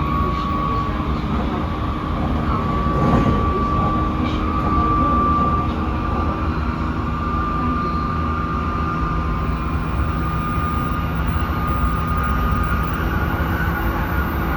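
Tsukuba Express electric train heard from inside the car while running at speed: steady rumble of wheels on rail with a thin high whine from the traction drive, holding a nearly constant pitch that edges slightly upward. A brief louder rush about three seconds in.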